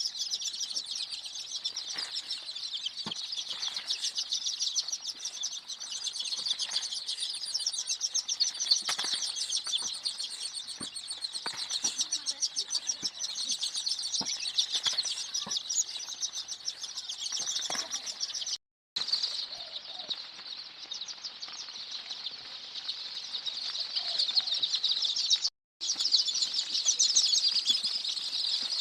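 A brood of desi chicken chicks peeping nonstop, many high chirps overlapping into a dense chorus, with faint scattered taps. The sound cuts out briefly twice, in the second half.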